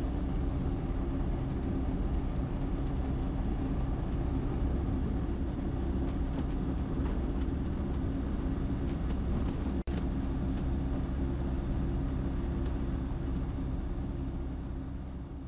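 Ikarus C42 light aircraft's engine and propeller running steadily at low power while the aircraft taxis after landing. The drone cuts out for an instant about ten seconds in, then fades out near the end.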